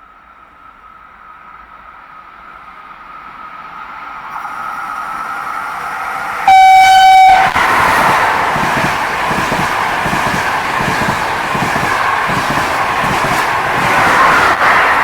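A train approaching and running through a station without stopping, growing steadily louder; about halfway in it sounds its horn once, a single-pitched blast lasting about a second, and then passes close by with loud rumbling and rushing wheel noise.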